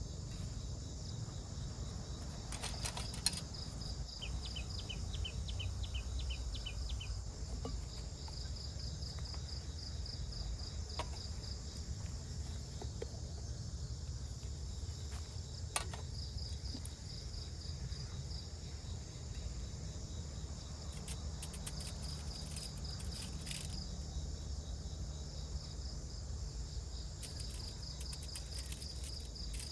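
Forest insect chorus: crickets chirping in a steady high-pitched background, with runs of pulsed chirps that come and go. There is a short string of lower, faster chirps a few seconds in, two sharp clicks (one about three seconds in, one about sixteen seconds in), and a low rumble underneath.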